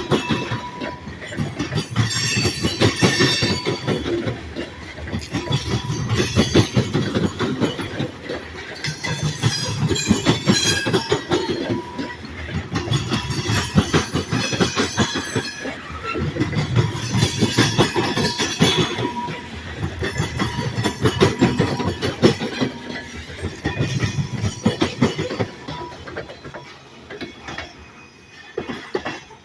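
Cars of a long Great Lakes Central freight train rolling past, wheels clicking and clattering over the rail joints in a rhythm that swells every few seconds as each car goes by. The sound dies away over the last few seconds.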